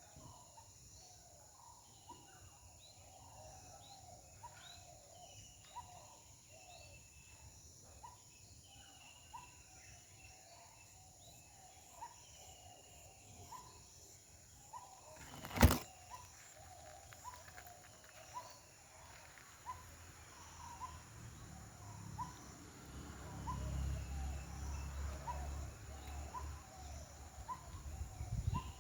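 Outdoor ambience of a bird calling with short, rising chirps repeated a bit more than once a second, over a steady high insect hum. A single sharp click comes about halfway through, and a low rumble builds up near the end.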